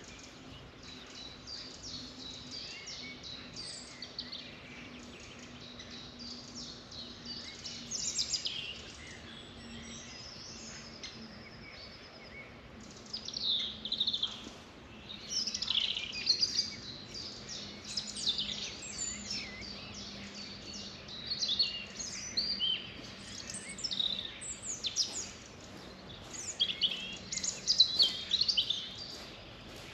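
A chorus of several songbirds chirping and singing, growing busier and louder about halfway through, over a faint steady low hum.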